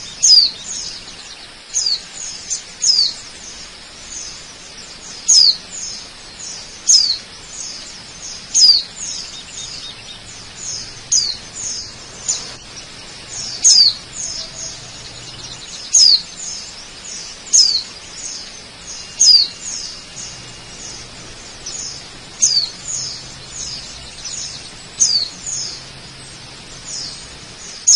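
A bird repeatedly calling with short, high chirps that sweep downward in pitch, about one to two a second, over a faint steady rush of water.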